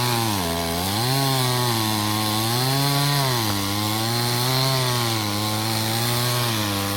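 Chainsaw running at high speed while cutting a tree, its engine note sagging and rising again several times as it works through the wood.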